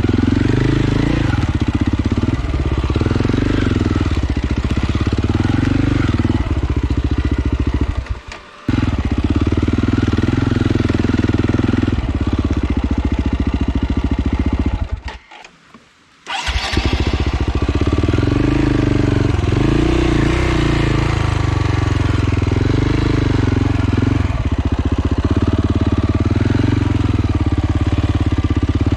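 Off-road motorcycle engine running under varying throttle on a single-track trail, its pitch rising and falling. The sound cuts out sharply twice: briefly about eight seconds in, and for about a second and a half around the middle.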